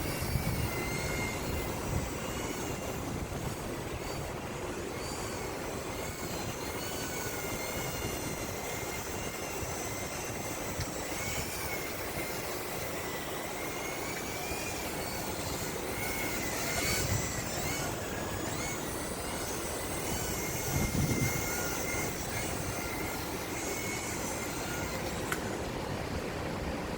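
A JJRC M06 radio-controlled model aircraft's small electric motor and propeller whining in flight, the pitch wavering up and down with throttle and manoeuvres. Underneath is steady wind noise, with low buffets of wind on the microphone twice in the second half.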